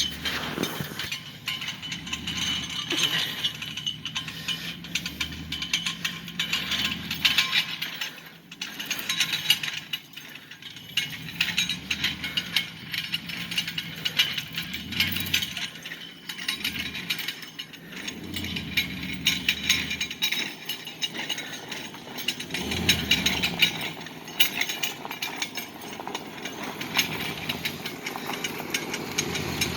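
Bale truck driving across rough ground, with continuous metal rattling and clattering over a low engine rumble.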